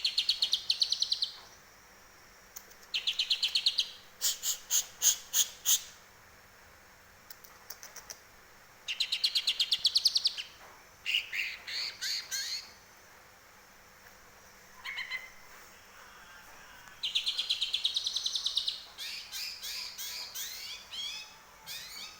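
Green leafbird (cucak ijo) singing in repeated bursts of rapid, high trilled notes, each a second or two long with short pauses between, some phrases sharp and very high; its repertoire is filled with mimicked grey-cheeked bulbul (cucak jenggot) song.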